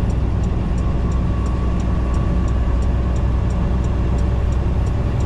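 Semi-truck cab at highway speed: the diesel engine drones steadily under road and wind noise.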